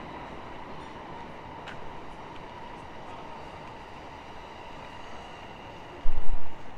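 Steady city street noise of vehicle traffic, an even rumble and hiss with a faint steady hum. About six seconds in comes a sudden, loud low thud.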